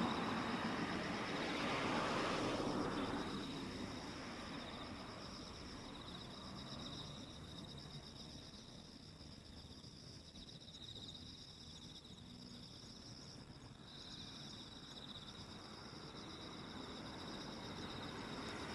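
Autumn insects, crickets, singing in a steady chorus of fine pulsed trills at two high pitches. A broad rush of passing traffic fades out over the first few seconds and begins to swell again near the end.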